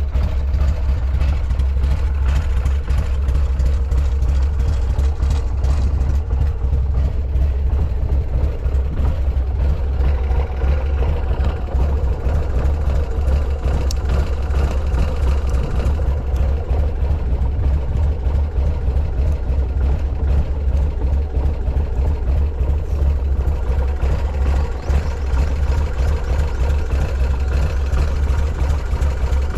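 Buell X1 Lightning's air-cooled 1203 cc V-twin idling steadily, with a deep, even exhaust note. The seller reports no abnormal noises from the engine.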